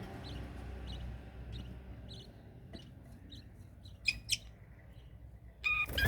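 Small birds chirping: short high chirps repeat about every half second, two louder, sharper chirps come about four seconds in, and a louder call follows near the end.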